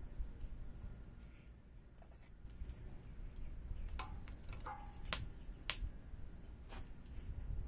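Wood fire crackling, with several sharp pops in its second half, over a steady low background noise.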